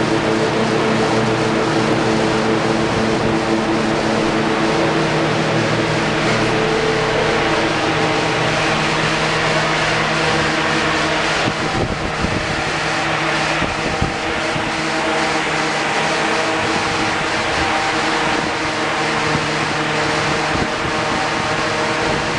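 Nissan SR20VE 2.0-litre inline-four running at a steady speed on a chassis dyno, not revving, over a loud steady rush of noise.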